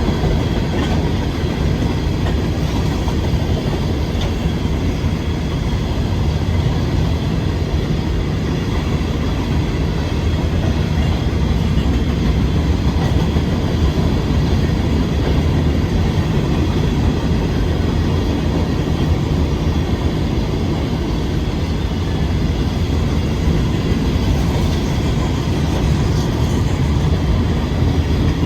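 Empty cars of a freight rock train rolling past: steady, loud wheel-on-rail noise.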